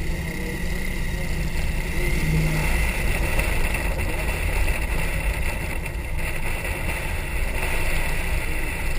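Hot rod's engine running steadily as the car drives slowly, a deep low sound with an even hiss over it.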